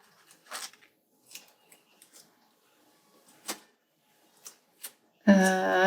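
Faint, scattered taps, clicks and paper rustles of hands working on a paper planner with stickers, about a dozen small sounds. Near the end a voice begins, a sustained vocal sound rising slightly in pitch.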